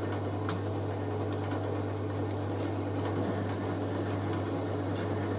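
Hoover A3060 Electronic 1100 washing machine running with a steady motor hum, its drum turning a load of bedding to distribute it before the spin. There is a light click about half a second in.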